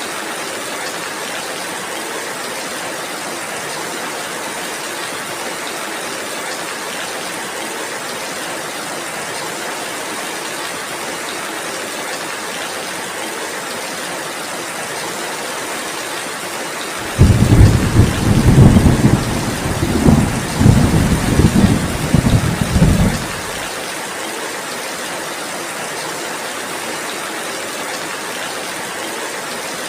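Heavy rain falling steadily. A little past halfway, a low roll of thunder starts abruptly and rumbles in several swells for about six seconds, then dies away under the rain.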